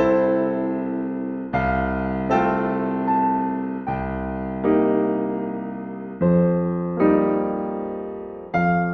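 Slow, gentle classical piano music: soft chords struck about once a second and left to ring and fade.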